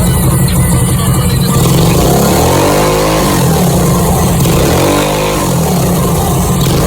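Minibike's Predator 212cc single-cylinder engine running loud, revved up and back down twice, a little over two seconds in and again about five seconds in.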